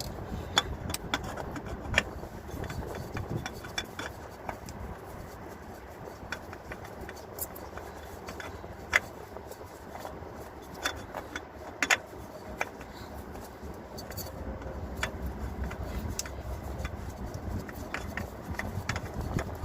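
Scattered small clicks and knocks of hands working a new oil filter into place under a car, over a steady low rumble.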